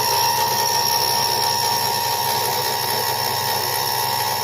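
Remax 3040 five-axis CNC router's spindle running with a steady whine as a T-slot cutter mills a slot in metal.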